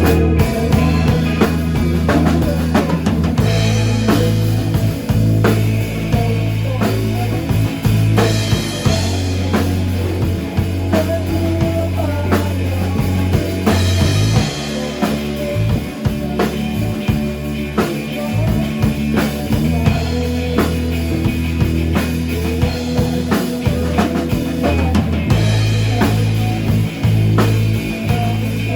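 Rock band playing: a drum kit keeps a beat under sustained bass-guitar notes that change every few seconds.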